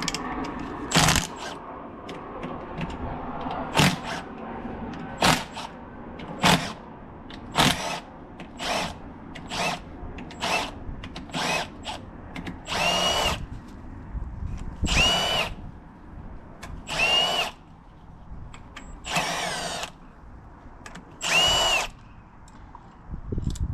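A cordless power drill-driver run in over a dozen short bursts, the later ones longer with a whine that rises and falls as the motor spins up and down, backing bolts out of a motorcycle engine during teardown.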